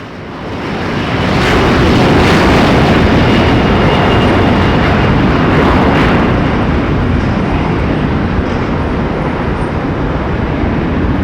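Aircraft engines at high power close by: a loud rushing noise that swells over the first two seconds and then holds steady.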